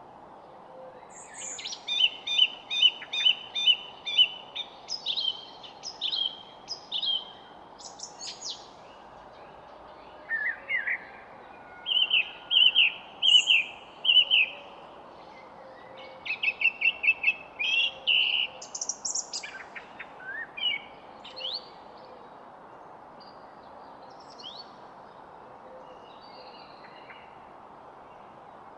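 Songbirds singing and chirping: runs of short, high repeated notes and trills in clusters, one after another, over a steady hiss of background noise, thinning out to occasional chirps in the last few seconds.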